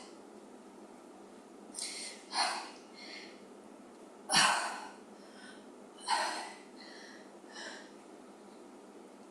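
A woman's hard breathing from exertion while pressing heavy dumbbells overhead: about seven short, forceful exhales and inhales, the loudest about four and a half seconds in.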